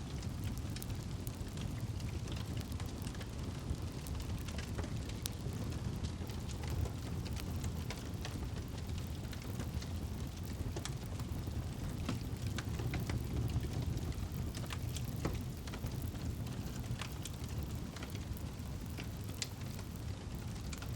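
Campfire burning: a steady low rush of flames with frequent irregular sharp crackles and pops.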